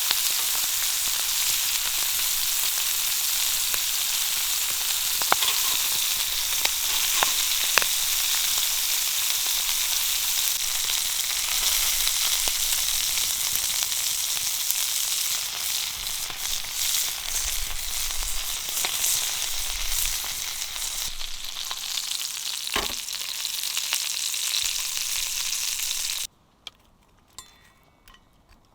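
Pork belly sizzling in an iron frying pan, a steady hiss with a few sharp pops from the fat. The sizzle cuts off suddenly near the end, leaving a few faint clinks.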